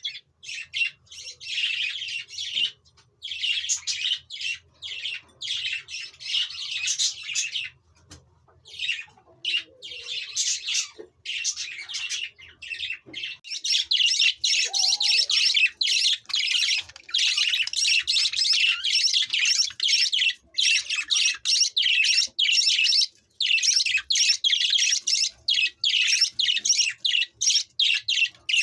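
Budgerigars chattering and warbling in a dense run of rapid chirps, with short pauses early on and getting busier and more continuous from about halfway through.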